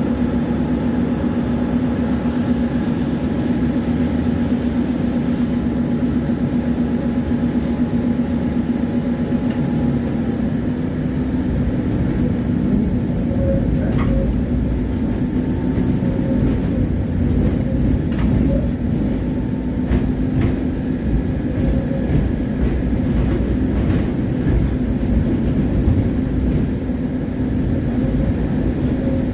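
Tram running along its route: a continuous rumble with a steady hum, a faint high whine rising early on, and a few sharp clicks partway through.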